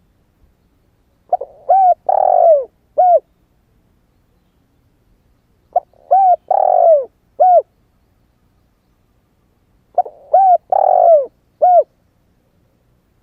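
Young male spotted dove cooing: three phrases about four seconds apart. Each phrase is a few short arched coos around one longer coo that falls in pitch. It is a newly matured bird's coo, of the kind used as a lure call for wild doves.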